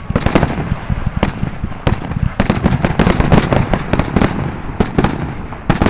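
Fireworks going off in a rapid barrage of bangs and crackling. The bursts come thicker and louder from about two and a half seconds in.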